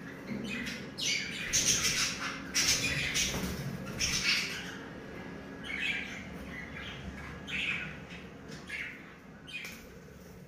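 Budgerigars giving a string of short, harsh calls one after another, thickest in the first half and thinning out toward the end.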